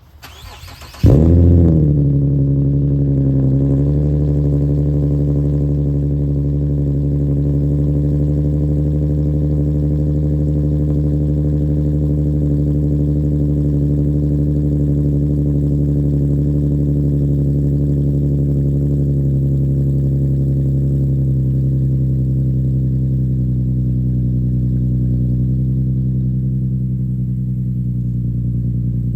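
Infiniti G37's 3.7-litre V6 on a cold start through an aftermarket ISR exhaust: it fires about a second in with a brief rev flare, then settles into a steady high cold-start idle that eases down slightly later on.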